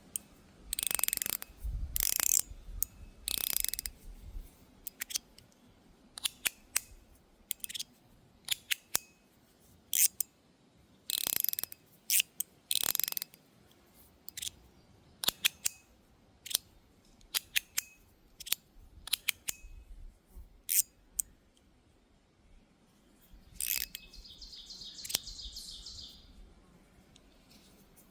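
Stainless steel fidget slider being worked by hand: sharp metallic clicks as it snaps into its stops, mixed with short sliding scrapes. Near the end there is a brief rapid chattering.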